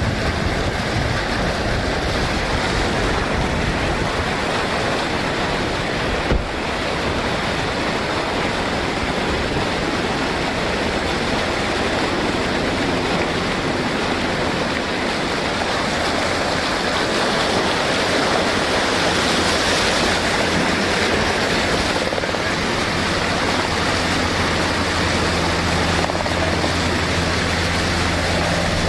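A steady engine drone under heavy wind and rushing noise. A low hum grows stronger over the second half, with a single knock about six seconds in.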